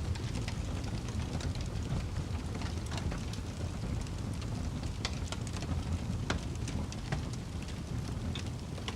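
Wood fire burning in a fireplace: a steady low rumble of flames with frequent small crackles and pops, a few sharper pops now and then.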